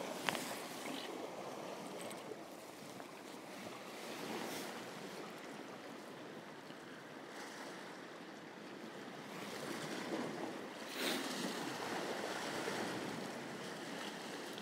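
Sea waves washing against shoreline rocks: a steady surf hiss that swells briefly about three-quarters of the way through, with one sharp click just after the start.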